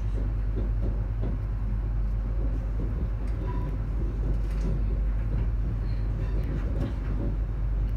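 Cabin noise of an ES2G Lastochka (Siemens Desiro RUS) electric multiple unit running at speed: a steady low rumble of wheels on rail, with faint scattered clicks.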